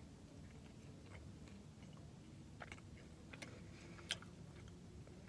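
Faint chewing of a spicy chicken McNugget, with a few soft crunchy clicks in the middle.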